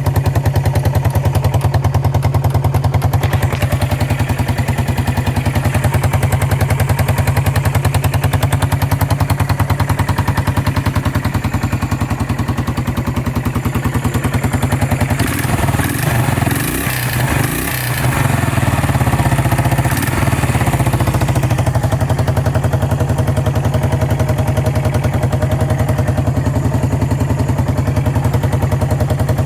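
Yamaha SR400's single-cylinder engine idling steadily through a Kaptone-style muffler, with an even thumping exhaust beat. For a few seconds in the middle the running goes briefly uneven, with some clatter, then settles back to a steady idle.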